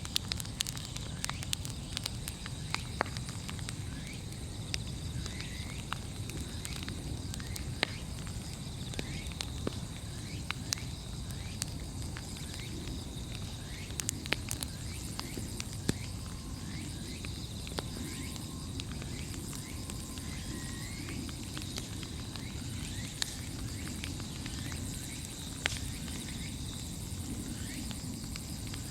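Large wood bonfire burning, with irregular sharp crackles and pops over a steady low rumble.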